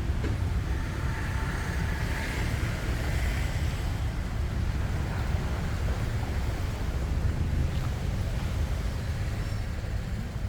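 Roadside traffic noise with a steady low rumble, and a vehicle going past that swells and fades between about one and four seconds in.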